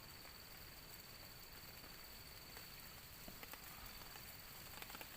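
Faint ambience of light rain, with a steady high-pitched insect tone and a few scattered drip-like ticks.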